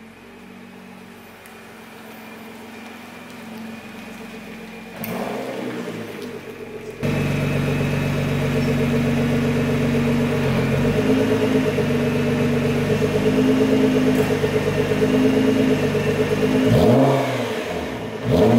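Nissan GT-R's twin-turbo V6 engine starting about seven seconds in and running at a steady fast idle. Near the end the revs rise and fall briefly.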